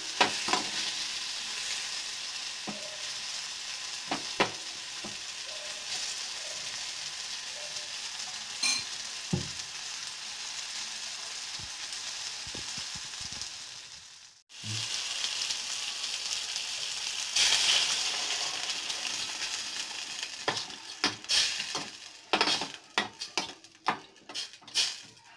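Onion, tomato and potato sizzling steadily in hot oil in a steel pot while a spoon stirs them, with occasional scrapes and taps of the spoon on the metal. The sizzle breaks off for a moment about 14 seconds in, comes back louder a few seconds later, and near the end fades under a run of quick spoon clinks and scrapes against the pot.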